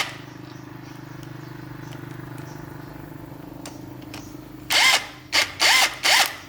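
A machine hums steadily at a fairly constant pitch. Near the end come four loud, short, harsh bursts, each rising and falling in pitch.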